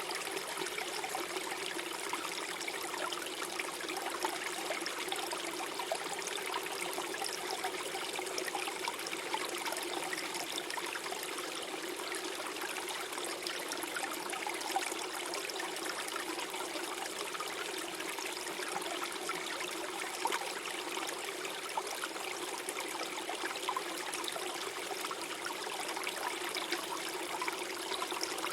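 Small forest stream flowing and gurgling over stones, a steady babble of running water.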